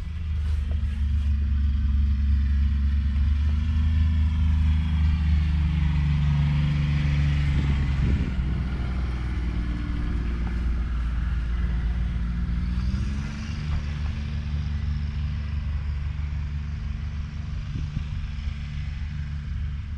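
Kubota M7173 tractor's 6.1-litre four-cylinder diesel running steadily, louder in the first half. Its note drops about seven seconds in, climbs again about thirteen seconds in, then carries on quieter.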